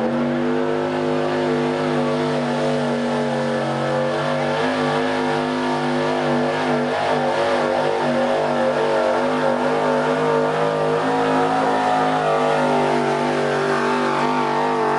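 Pickup truck engine held at high revs under full load while pulling a weight sled, its pitch steady with only slight wavering throughout.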